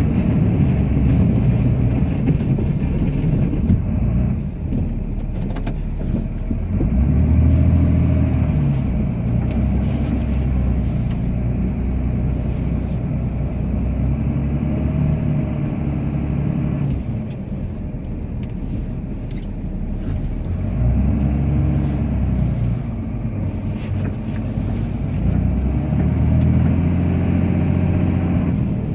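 Cummins diesel engine of a Ram pickup pushing snow with a plow blade, heard from inside the cab; the revs rise and fall again about four times as the truck makes its passes.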